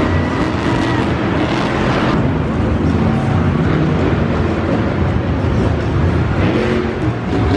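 Monster truck engine running loud in the arena, a steady low engine drone.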